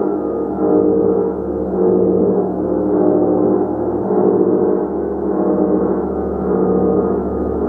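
A gong played continuously as a dense, sustained wash of overlapping tones, its loudness swelling and easing about once a second.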